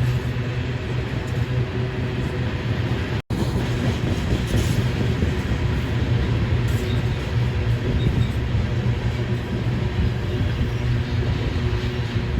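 Freight train passing close by, its diesel locomotive engine running with a steady low drone over continuous rolling noise. The sound cuts out for an instant about three seconds in.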